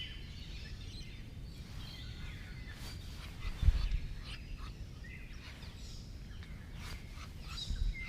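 Outdoor ambience: small birds chirping faintly now and then over a steady low rumble. A dull thump comes a little past halfway, and a softer one near the end.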